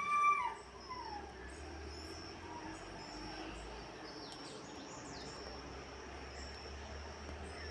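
An animal's short whining call, falling in pitch, right at the start, followed by a few fainter falling calls over a steady faint background.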